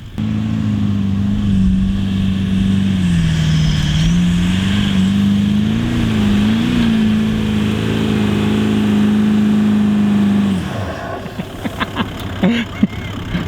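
Four-wheel-drive engine working hard through soft sand, revs held up with a brief sag about four seconds in and a wavering around six to seven seconds, then dropping away as the throttle comes off near the end.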